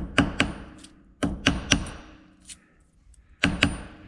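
Sharp metallic knocks in quick groups of three, three, then two, each with a brief ring: metal parts of an old Starrett magnetic base being knocked together on a workbench during disassembly.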